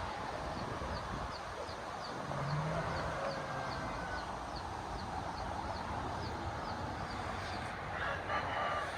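Wind rushing over the microphone in a steady roar, with a faint high chirp repeating about three times a second and a short chicken call near the end.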